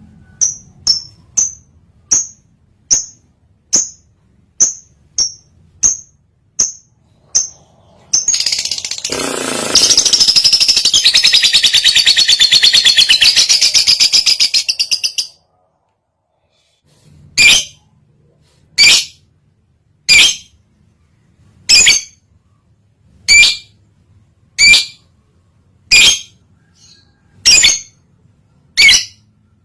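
Lovebird in breeding condition calling. It gives a run of short sharp chirps, about one and a half a second, then a long unbroken rapid chatter of about seven seconds that cuts off suddenly. This is the chatter keepers call ngekek. After a short silence come single loud chirps about every second and a half.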